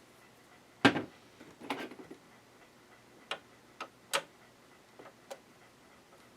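Scattered sharp clicks and knocks, the loudest about a second in, from a screwdriver and screw working on a sewing machine's plastic casing while a screw is taken out.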